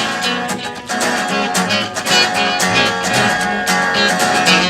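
Acoustic guitar strumming a steady rhythm, with a walking bass line under it and no singing.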